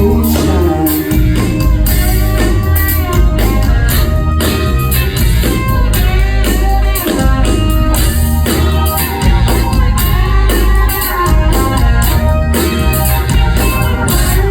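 Live band playing: electric guitar lines over drum kit and bass, without vocals.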